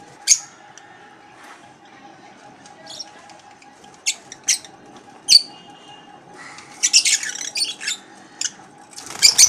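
Lovebirds giving short, sharp, high-pitched chirps and squawks, single calls a second or so apart with a quick run of calls about seven seconds in.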